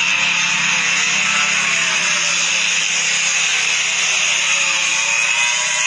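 MotoGP racing motorcycle engines screaming at high revs around the circuit, with one bike's engine note falling slowly over a few seconds as it goes past.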